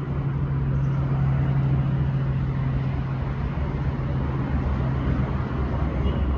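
Steady low motor hum with rumble and broad noise, unchanging throughout; no clear bird calls stand out.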